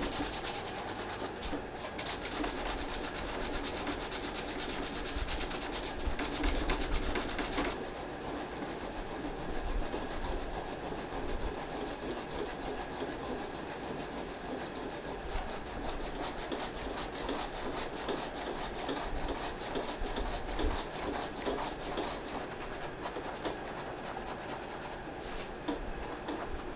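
Suede eraser rubbing back and forth over a sneaker's suede upper, a continuous dry scrubbing made of quick repeated strokes.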